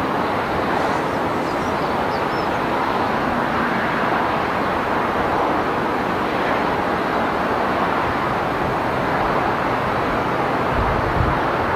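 A train hauled by a DX and a DC diesel-electric locomotive passes at a distance, heard as a steady, even noise without a clear engine note. Wind gusts on the microphone near the end.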